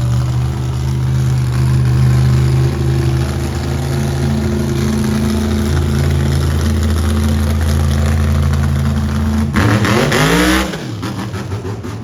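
Large vehicle engine running steadily at a loud level, then revving up sharply and falling back about ten seconds in, after which it drops to a lower level.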